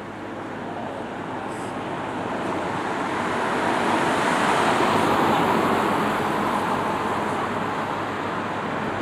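Road traffic noise, with a vehicle passing close by: a steady rush that grows louder to a peak about halfway through, then eases off a little.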